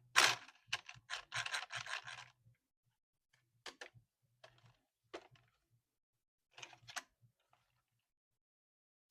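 Close-up handling noises of unboxing a toy RC car: a quick run of scrapes and rubs in the first two seconds or so, then scattered single clicks and scrapes.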